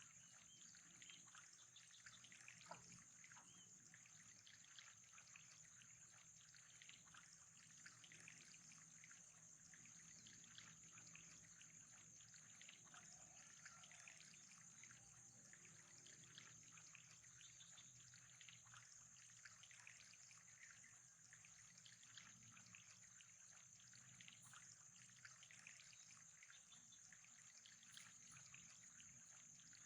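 Faint, steady trickle of running water with fine crackling, over a thin steady high-pitched whine.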